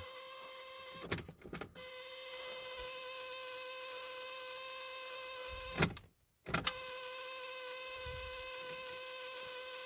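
A steady faint electrical whine made of several even, steady tones. It drops out briefly twice. The diesel is not yet running and is still on its glow plug preheat before a cold start.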